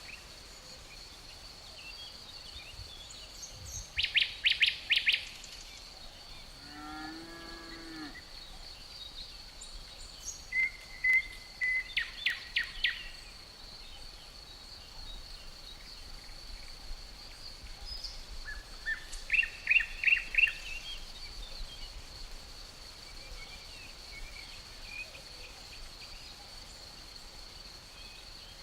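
Forest ambience: a steady high insect drone, like crickets, with birds singing three short bursts of rapid trilled notes, the loudest sounds. About seven seconds in comes a brief low animal call.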